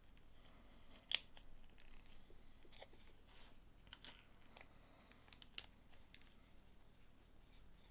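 Small plastic LEGO pieces being handled and pressed together: a few faint, scattered clicks and taps, the sharpest about a second in.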